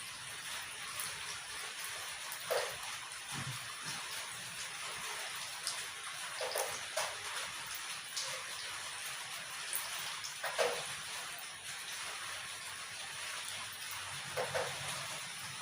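A person eating nasi padang close to the microphone: wet chewing and mouth sounds over a steady hiss, with a louder smack or crunch every few seconds.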